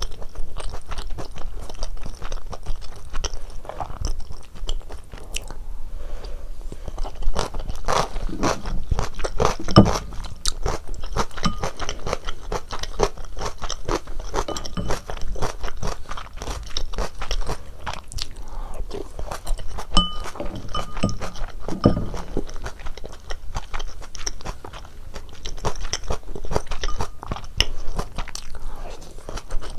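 Close-miked eating sounds of cheese ramen with dumplings: continuous wet chewing and biting with many small crackling clicks, and a few short clinks near the end.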